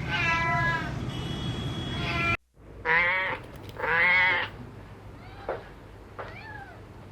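Kittens meowing: one meow at the start, then after an abrupt cut about two and a half seconds in, two loud drawn-out meows, followed by two fainter, shorter ones.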